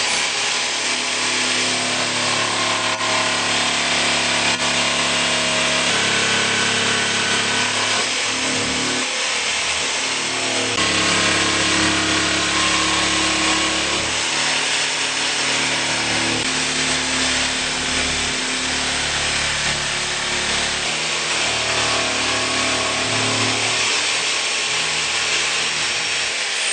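Jigsaw cutting through an Onyx shower wall panel, its motor running steadily with its pitch shifting every few seconds as the blade is worked around the cutout. The motor spins down right at the end.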